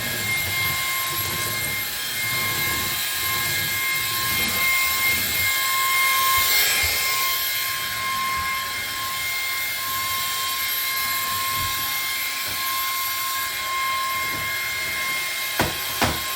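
Ryobi cordless stick vacuum running steadily, a whooshing hiss with a constant high whine, as it is pushed over confetti. A few sharp clicks come near the end.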